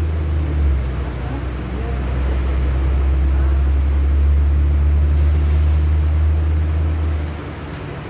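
Cabin noise of a LiAZ-6213.65 articulated city bus under way: a steady low engine drone with road noise, which eases off a little after seven seconds in.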